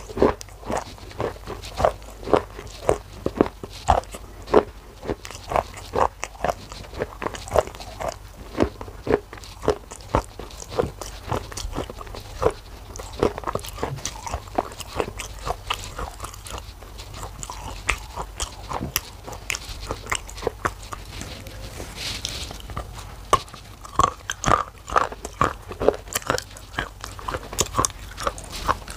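A person chewing and crunching dry pieces of black shale clay: a rapid run of sharp crunches, two to three a second, softer through the middle and louder again toward the end.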